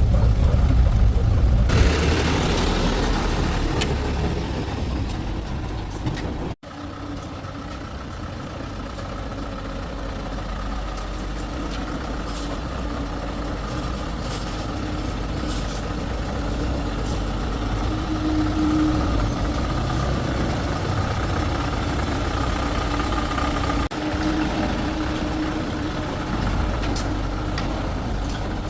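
Heavy vehicle engine running steadily. About two seconds in comes a burst of hissing air that fades over a few seconds.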